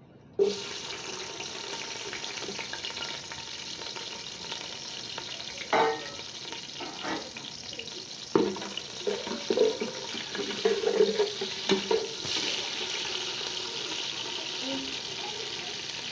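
Cooking oil sizzling steadily in a cooking pot, with a few sharp clinks and knocks of a utensil against the pot in the middle. The sizzle starts suddenly just after the beginning.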